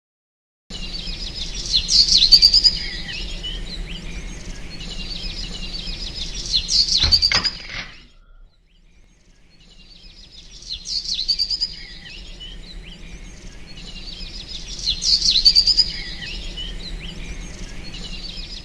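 Several birds chirping and twittering over a steady low background hum, as an ambience sound effect. It starts abruptly, has a single thump near the middle, cuts off about eight seconds in, then fades back in a second or so later.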